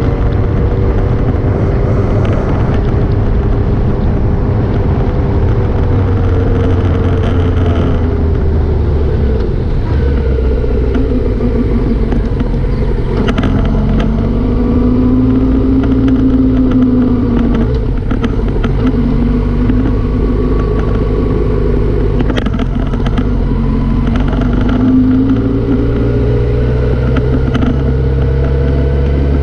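Motorcycle engine running on the move, its pitch rising and falling as the throttle opens and closes, over a heavy low rumble of wind and road noise. A few short sharp clicks or knocks come through in the middle.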